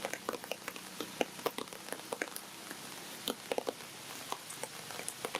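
Rain falling, with irregular drops pattering and ticking on nearby surfaces over a steady hiss.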